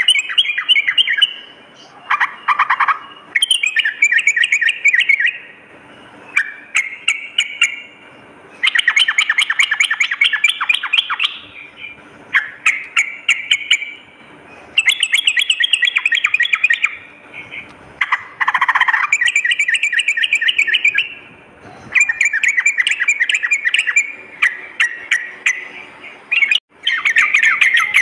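Yellow-vented bulbul (trucukan) singing: loud, rapid chattering phrases of quick notes, each a second or two long, repeated over and over with short pauses. A faint steady hum runs underneath.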